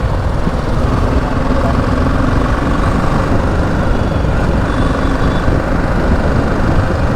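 BMW G 310 GS single-cylinder motorcycle engine running while riding in traffic, over a steady low rumble.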